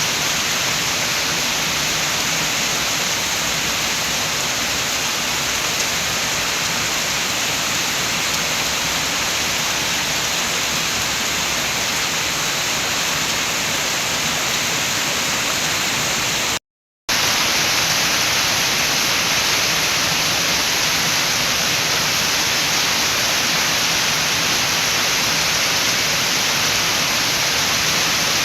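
Steady rain with wind, an even hiss. A little past halfway it cuts to silence for a split second, then comes back slightly louder.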